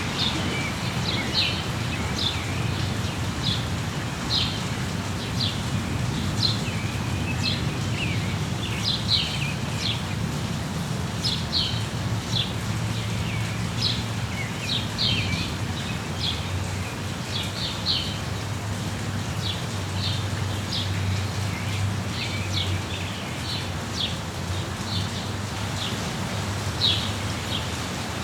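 Steady rain with many small birds chirping over it in short, high notes, several times a second at irregular intervals, and a steady low rumble beneath.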